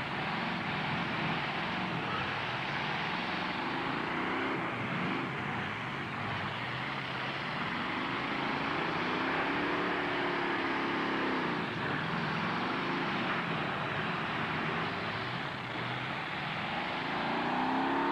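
Truck engines revving up and down during a demolition derby, with several pitches rising and falling over a steady roar of noise.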